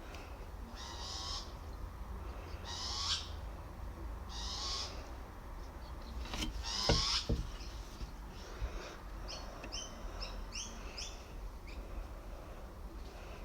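A bird calling over and over: four long, harsh calls about a second and a half apart, then a quick run of short chirps.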